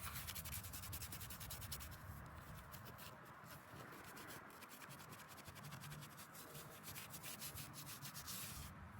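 Quick, closely spaced rubbing strokes on a headstone's stone surface, as in scrubbing it clean.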